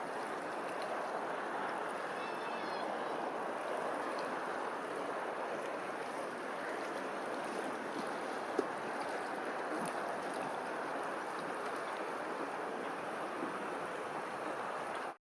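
Steady rushing of flowing water, with a few faint high chirps in the first few seconds and a single sharp click about halfway through; the sound cuts off abruptly near the end.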